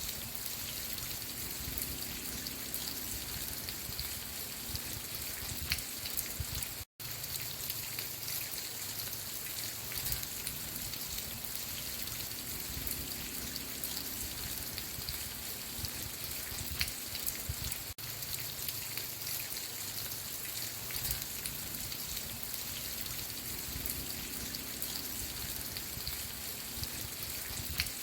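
Steady rain falling, with scattered individual drops ticking through the hiss. The sound drops out completely for an instant about seven seconds in.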